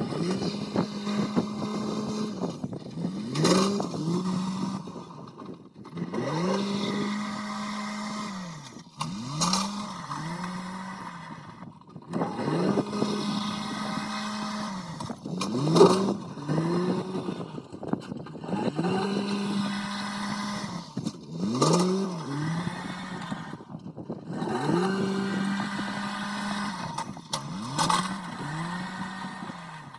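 The engine of a machine piling corn, working in a repeating cycle about every six seconds. It holds a steady note, then revs up and down in quick rises, with a sharp clank near the loudest point of each cycle.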